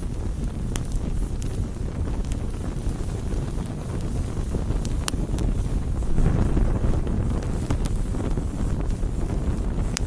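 Wood campfire burning: a steady low rush of flames with scattered sharp crackles and pops, swelling briefly louder about six seconds in.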